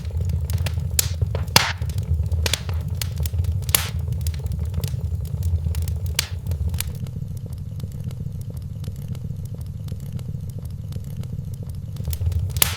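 Wood fire in a fireplace crackling: sharp pops and snaps come every second or so, thin out through the middle and pick up again near the end, over a steady low rumble of the burning fire.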